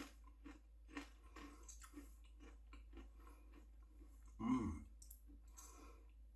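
A person chewing a mouthful of cracker with jam: faint, soft mouth clicks about two a second. A short low hum falling in pitch comes about four and a half seconds in.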